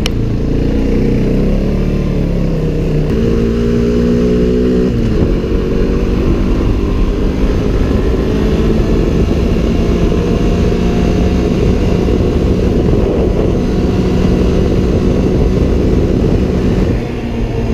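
Off-road vehicle engine running under way on the trail. Its pitch steps up about three seconds in and drops back about two seconds later. After that it runs steadily, easing off briefly near the end.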